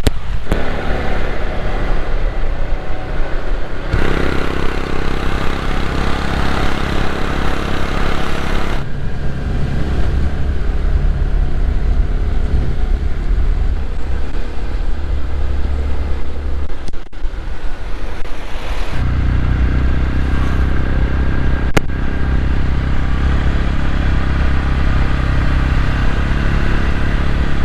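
Motorcycle engine running under way, with wind rushing over the microphone. The sound changes abruptly several times, as if cut between stretches of riding.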